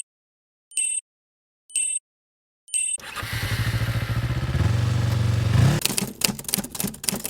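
Three short, high-pitched electronic alert beeps about a second apart, then a motorcycle engine starts running about three seconds in and grows louder, turning to a rapid clattering near the end.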